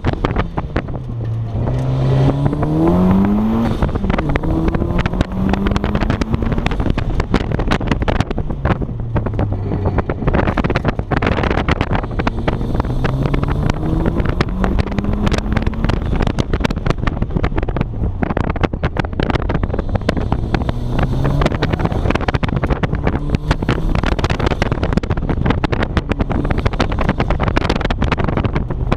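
1994 Mazda Miata's 1.8-litre four-cylinder engine on a hard autocross run. It revs up, eases off and pulls hard again several times through the course, with heavy wind buffeting on the microphone.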